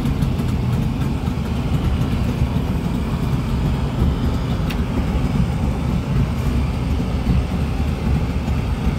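Boat engine running steadily, a continuous low-pitched rumble with a single short click about halfway through.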